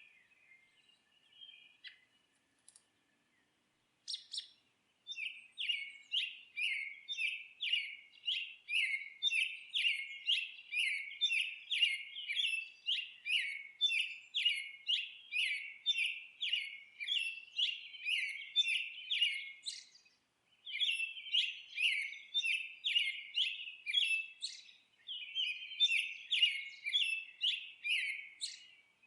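Songbird chirping: a few faint, scattered calls at first, then from about five seconds in a bird repeats a sharp chirp about twice a second in long runs, breaking off briefly twice.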